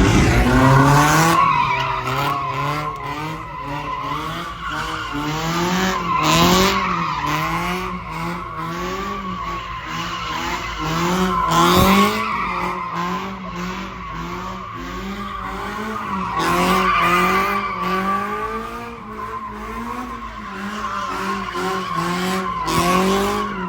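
A car's engine revving hard and dropping again over and over, about once a second, while its rear tyres squeal continuously as it slides in donuts or a burnout. The sound falls away sharply at the end.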